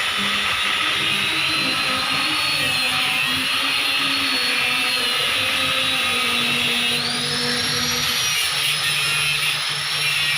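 Electric power tool cutting iron stock for a press frame, running with a steady high-pitched whine that rises in pitch about seven seconds in.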